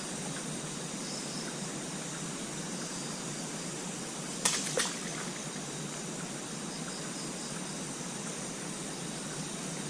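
Steady hissing outdoor ambience, with two sharp clicks close together about halfway through.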